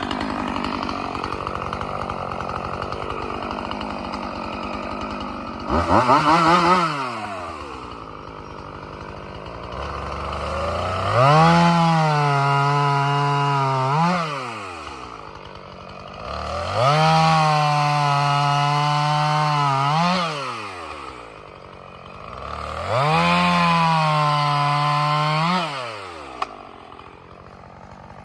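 Two-stroke chainsaw cutting firewood logs. It idles, revs briefly about six seconds in, then makes three cuts of a few seconds each, with the engine rising to full throttle, holding under load, and dropping back to idle between cuts.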